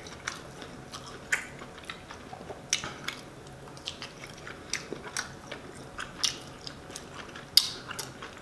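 Close-up mouth sounds of a man chewing boiled crawfish meat dipped in a mayonnaise-butter sauce: soft chewing with scattered wet clicks and smacks.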